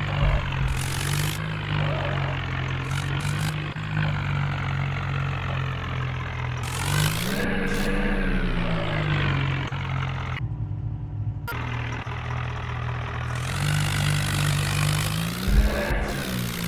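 Tractor diesel engine running steadily, revved up and back down once about halfway through.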